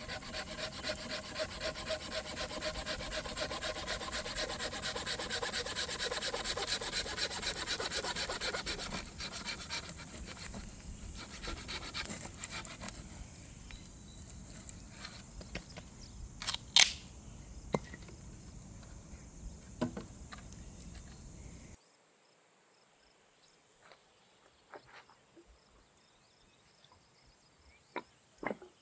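Fast, even rasping strokes for about nine seconds that then fade away, followed by a few scattered sharp knocks and clicks.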